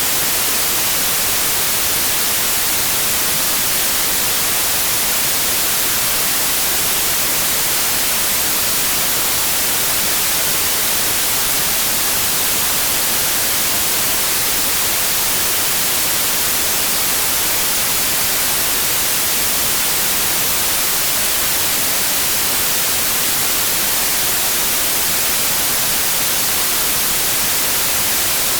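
Steady white noise: an even, unbroken hiss with no hum or tone in it, holding a constant level.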